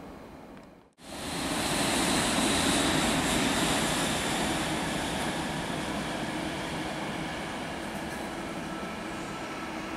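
ÖBB electric locomotive-hauled train running through a station: a steady rush of wheel and running noise that sets in suddenly about a second in and slowly fades, with a faint high squeal coming in near the end.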